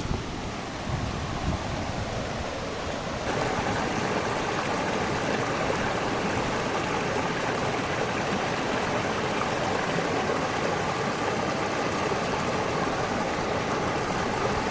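Waterfall water rushing in a steady, even wash that gets louder about three seconds in.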